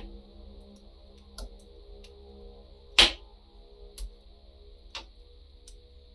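Wood fire crackling: irregular sharp pops over a steady soft hiss, with one loud pop about three seconds in and smaller ones around one and a half, four and five seconds.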